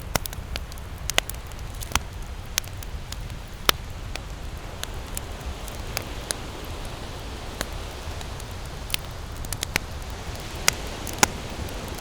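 Wood campfire crackling: irregular sharp pops of burning wood, a second or so apart, over a steady low rumble. The loudest pops come near four seconds in and twice near the end.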